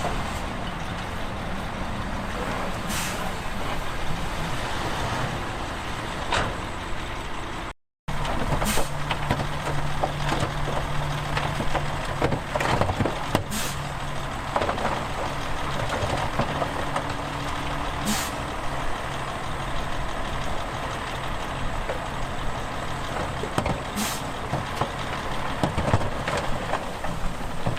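Heavy diesel earthmoving machinery running: bulldozer and dump truck engines working, with a steady low drone in the middle stretch and several short sharp noises over it. The sound drops out briefly about eight seconds in.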